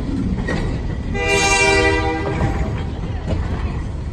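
Flatcars loaded with truck trailers rolling past at close range: steady wheel rumble with a couple of sharp clacks over rail joints. A locomotive horn blast sounds about a second in and lasts about a second.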